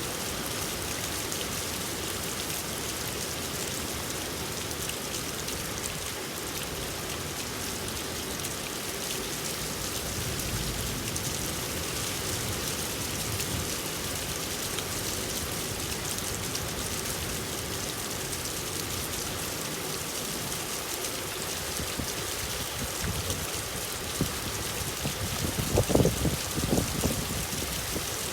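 Steady rain falling and pattering on a surface, with a short cluster of louder knocks near the end.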